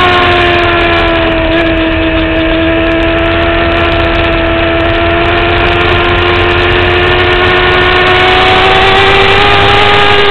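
2009 Kawasaki ZX-6R's inline-four engine running at high revs on track. Its pitch eases slightly in the first few seconds, then climbs steadily through the rest as the bike pulls harder.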